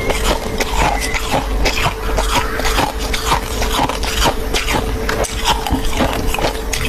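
Close-miked crunching and chewing of soft, fluffy freezer frost: a dense, unbroken run of crisp crackles, over a steady hum.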